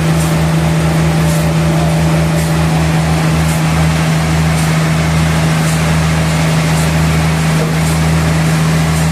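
Sawmill machinery running steadily: a loud, even motor hum over a low throb that pulses quickly for the first couple of seconds, then more slowly, with faint high ticks about once a second.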